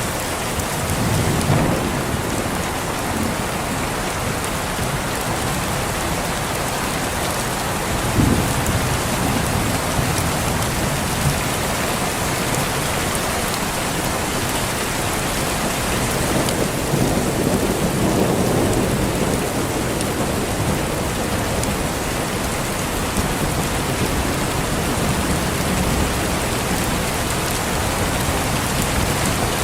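Steady heavy rain falling, with low rolls of thunder: a sharp one about eight seconds in and a longer rumble a little past the middle.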